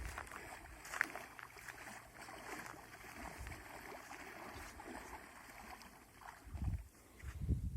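Wind buffeting the microphone in gusts over a steady wash of water on the shore.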